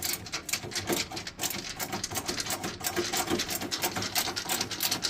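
Ratchet tool clicking rapidly as screws are driven back into a boiler's casing.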